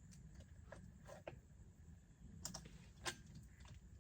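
Faint, scattered light clicks and taps of a chainsaw chain and bar being handled during assembly. The sharpest click comes about three seconds in.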